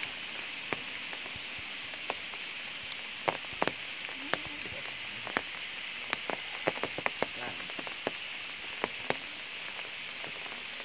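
Steady rain hissing, with scattered sharp drips striking leaves and stone at uneven intervals.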